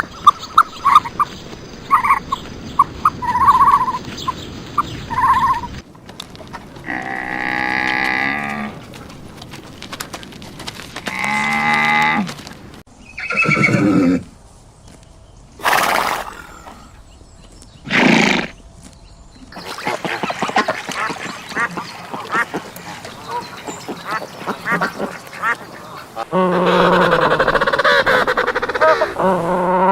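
A sequence of different farm animal calls, one after another with short pauses between them: quick high chirps at first, then several longer pitched calls, among them what the tags take for a horse's neigh, and a drawn-out call near the end.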